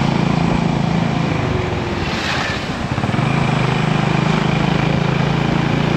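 Motorcycle engine running under way, with wind rushing over the microphone. About two seconds in the engine note eases off and a brief rush of higher noise comes through, then the engine picks up again about a second later.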